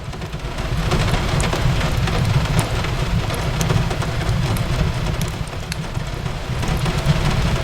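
Steady rain on a window with a low rumble underneath, overlaid with the scattered sharp pops and crackles of a wood fire in a fireplace.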